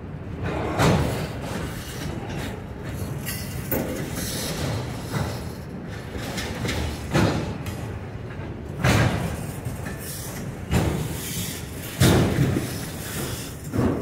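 A freight train of enclosed autorack cars rolling past with a steady rumble. A loud clunk comes every one and a half to two seconds, about eight in all.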